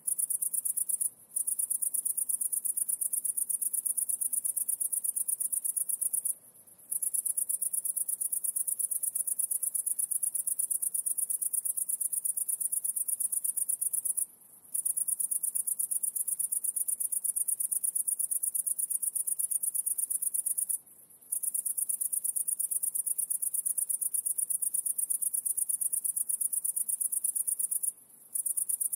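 An insect trilling: a high-pitched, rapidly pulsing trill that stops for a brief pause about five times.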